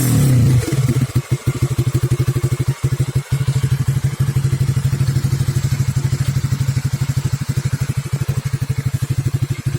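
A Honda CB150R's single-cylinder engine idling through an aftermarket FU CBU silencer, the exhaust coming out as a rapid, even pulse. A short blip of revs dies away in the first half-second before it settles.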